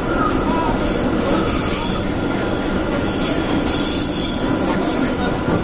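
Stadler-Bombardier diesel-electric rack-railway railcar running, heard from inside the passenger car: a steady running rumble with a few brief bursts of high hiss.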